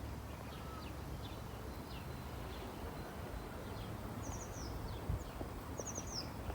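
Faint birds chirping over a low, steady outdoor rumble, with two quick trills of high notes, one around the middle and one near the end.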